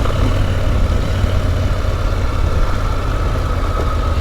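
Motorcycle engine running steadily at an even low pitch, with a rushing noise over it.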